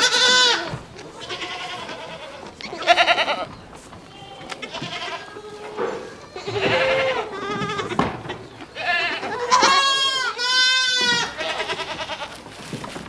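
Goats bleating, one call after another every second or two, the loudest about three seconds in and two long wavering bleats near the end.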